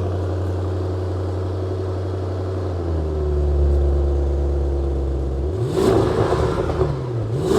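2021 Audi RS6's twin-turbo 4.0-litre V8 idling through a titanium Valvetronic valved exhaust with its valves closed; the note deepens about three seconds in. Near the end the engine is revved in a few quick blips.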